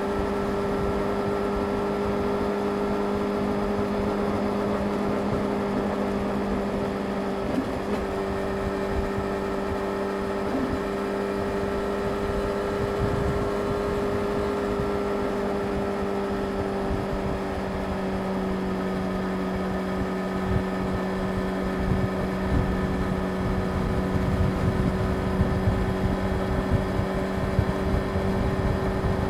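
Yamaha YZF-R6's inline-four engine running at a steady cruising speed, its pitch held nearly constant, with wind noise rushing over the microphone that gets gustier in the last third.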